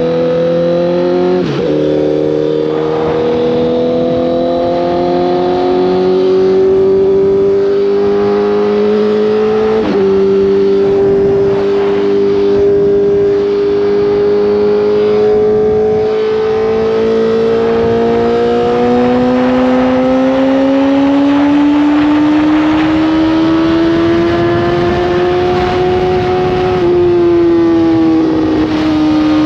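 Honda CBR1000RR's inline-four engine pulling through the gears: its note climbs steadily in each gear and drops sharply at the upshifts, about a second and a half in, about ten seconds in and near the end.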